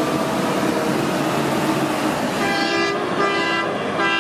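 Steady loud noise, with a vehicle horn sounding three short blasts in quick succession from about two and a half seconds in.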